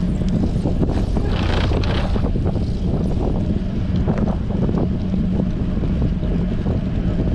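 Strong wind buffeting a bicycle-mounted GoPro's microphone while riding, a steady low rumble, with a brief rise in hiss about a second and a half in.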